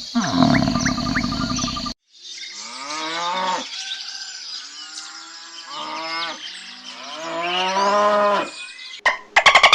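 Cattle mooing: several drawn-out moos that fall in pitch, from about two seconds in until near the end. The first two seconds hold the tail of a different animal call, and the mooing cuts off suddenly into plucked music near the end.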